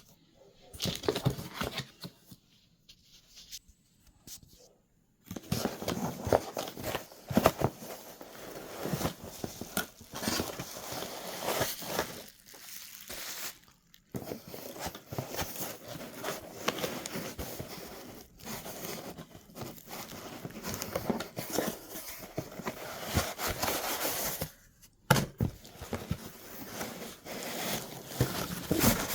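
Packaging of a vinyl record order being torn open and handled: crinkling, rustling and tearing in irregular stretches, with a few short pauses.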